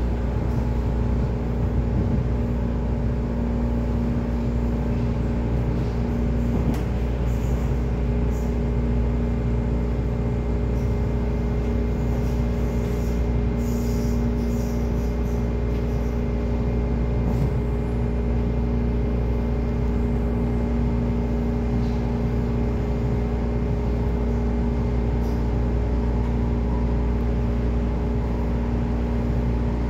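Onboard a Hong Kong MTR East Rail line mid-life refurbished (Metro-Cammell) electric train running at a steady speed: a constant rumble of wheels on rail with a steady low hum that holds one pitch.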